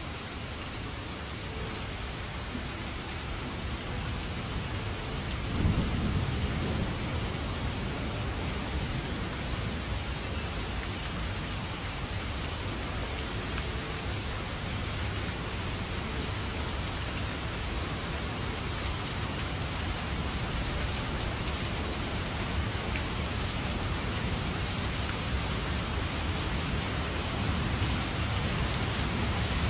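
Heavy rain falling steadily in a dense hiss, with a low rumble of thunder about six seconds in and another rumble building near the end.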